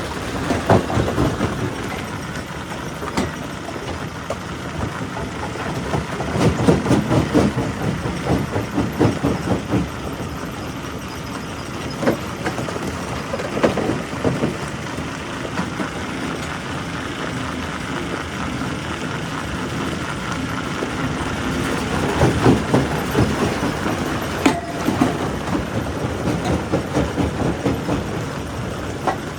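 Quarry primary rock crusher running steadily, with rapid clusters of cracking and banging as rock is broken in it, heaviest about a quarter of the way in and again near the three-quarter mark.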